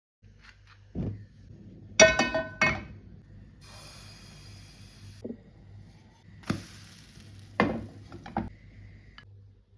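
Kitchenware being handled: a string of knocks and clinks, the loudest about two seconds in ringing briefly like glass or ceramic, with more knocks later, over a low steady hum.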